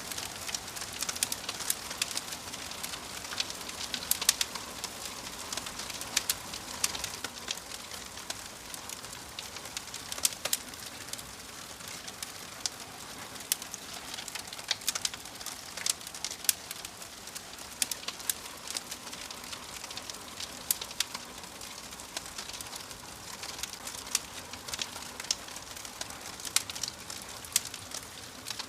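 Wood fire crackling in a fireplace: frequent sharp, irregular pops and snaps over a steady soft hiss.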